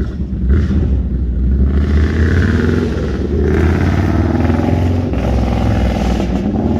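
Razor PR200 child's motorcycle running close by as it rides up, a steady loud drone with a slightly wavering pitch.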